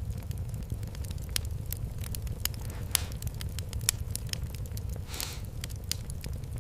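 Fireplace fire crackling: irregular sharp pops and snaps over a low steady rumble of flames, with a short hiss about five seconds in.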